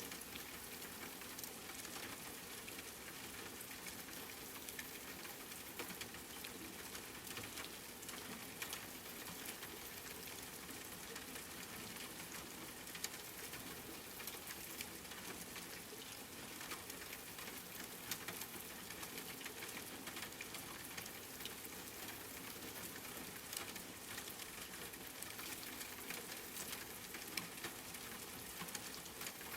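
Steady rain: an even hiss scattered with the ticks of individual drops landing close by.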